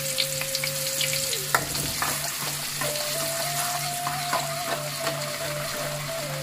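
Sliced shallots sizzling and crackling in hot oil in an aluminium wok, stirred with a spatula that scrapes and knocks against the pan, with one sharper knock about a second and a half in. A faint steady tone runs underneath and drops out for about a second and a half.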